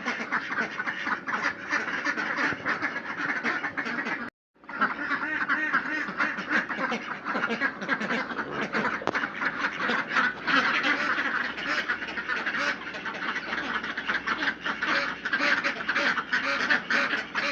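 A flock of white crested ducks quacking continuously, many calls overlapping. The sound cuts out completely for a moment about four seconds in.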